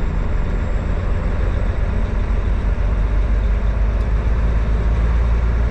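Steady low rumble of a diesel truck's engine and road noise heard from inside the cab as it drives slowly.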